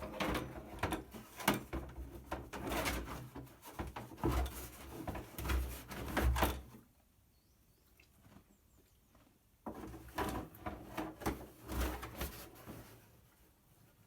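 A horse knocking plastic feed buckets and the lid of their storage box about: a run of knocks and clatters, a pause of about three seconds midway, then more clattering.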